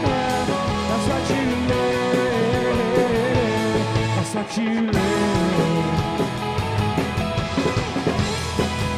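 Indie rock band playing live: electric guitars with bass and drums, the guitar notes bending, with a momentary break in the cymbals about halfway.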